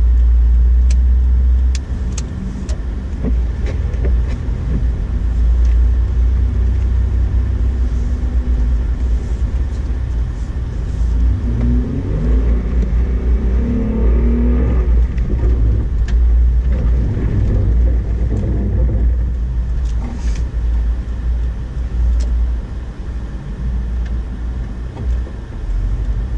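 2008 Honda Ridgeline's V6 engine and tyres making a steady low rumble while driving through snow, with the engine pitch wavering up and down for a few seconds about halfway through.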